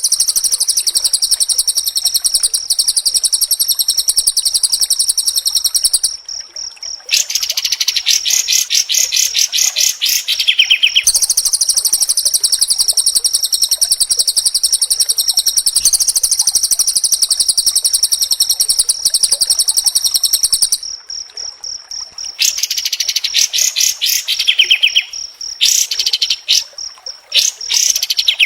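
White-rumped shama (murai batu) singing fast, dense song: long runs of rapid, closely repeated high notes, broken by short pauses about six seconds in and again around twenty-one seconds.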